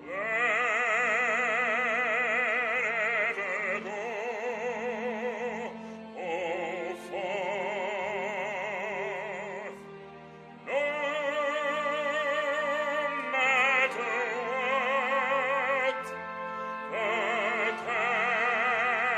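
Operatic singing: a trained voice holding long notes with strong, wide vibrato, moving slowly from note to note in several sustained phrases.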